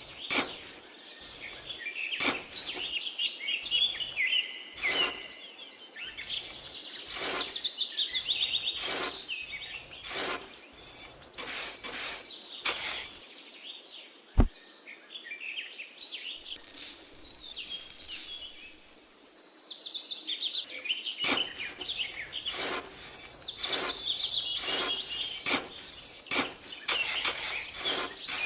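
Birds chirping and singing in many quick, high calls and trills, with frequent short clicks and one sharp click about halfway through.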